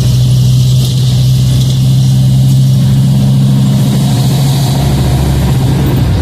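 Scania K310IA bus diesel engine running with a loud, deep, steady rumble at an even pitch.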